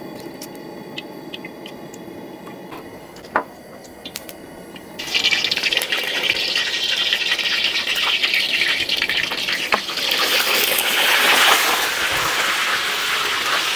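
Sausages and a hot dog frying in hot oil in a wok. The frying sizzle starts suddenly about five seconds in, with crackles through it. It grows louder after about ten seconds as the unscored sausage skins spatter.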